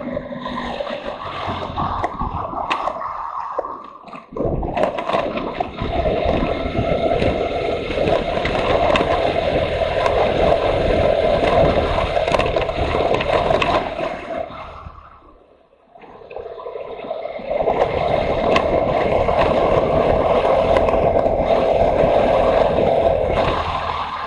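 Motorcycle running under way on a ride, a continuous noisy rumble that drops away briefly twice, as if the throttle is eased off.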